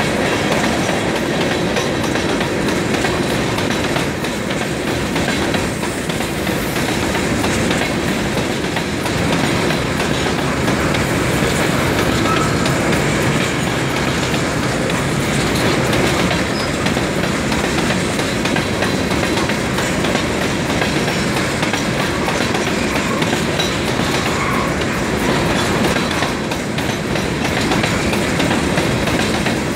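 Tarp-covered freight wagons of a mixed freight train rolling past, their steel wheels running on the rails with a steady noise.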